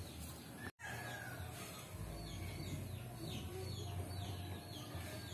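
Birds calling outdoors: a run of short, falling chirps repeated over a few seconds, over a low steady rumble. The sound drops out completely for an instant just under a second in.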